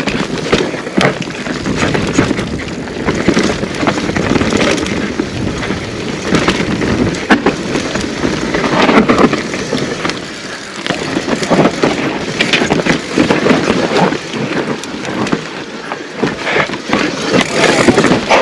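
Mountain bike descending a dirt trail: tyres rolling over dirt and roots, with the bike rattling and knocking over bumps and wind rushing over the microphone.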